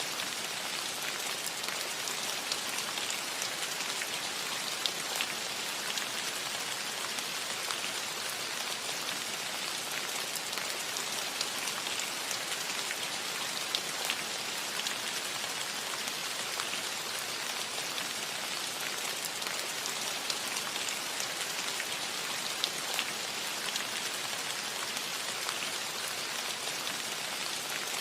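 Steady rain falling on a metal roof: a constant hiss of drops with scattered individual taps.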